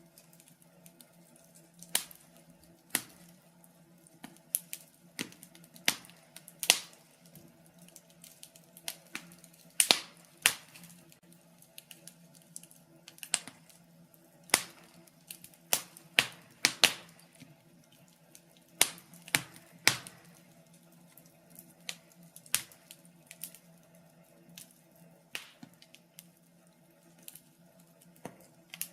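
Logs burning in a fireplace, crackling with sharp, irregular pops and snaps about once a second, bunched more closely in a few spots, over a faint steady low hum.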